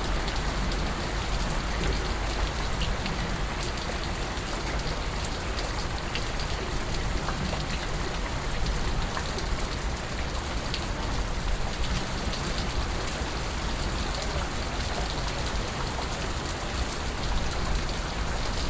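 Steady rain falling, an even hiss with scattered single drops standing out as small ticks and a low rumble beneath.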